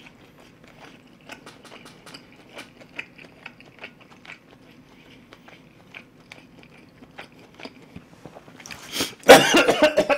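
Close-miked chewing: soft wet mouth clicks as a man eats. About nine seconds in comes a loud, sudden cough as he chokes a little on his food.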